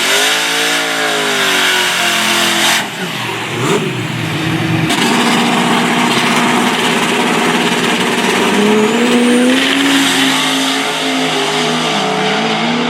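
Drag racing cars' engines running loud at high revs during a no-prep race pass. The pitch dips and climbs, turns rough and crackly about three seconds in, then holds and slowly rises.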